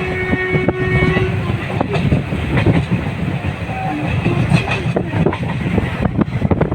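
A train horn sounding one held note that cuts off about a second in, over the steady rumble and clickety-clack of a train running on the rails.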